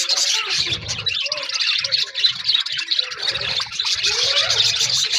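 A flock of budgerigars chattering together, a dense, continuous twitter of many short chirps, with some soft low thumps underneath.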